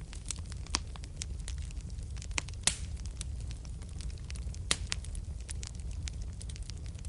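Wood fire crackling in a fireplace: frequent sharp pops and snaps over a steady low rumble of burning, with two louder pops, one about two and a half seconds in and one near the five-second mark.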